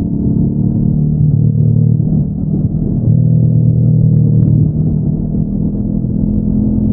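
Honda NX500's parallel-twin engine through its stock exhaust, running at a steady road pace. The engine note shifts a little about a second and a half in, dips briefly, and picks up again about three seconds in as the throttle changes.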